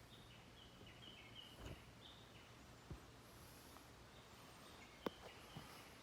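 Near silence: quiet forest ambience with faint, short high chirps of distant birds. There are two soft clicks, one about three seconds in and a sharper one about five seconds in.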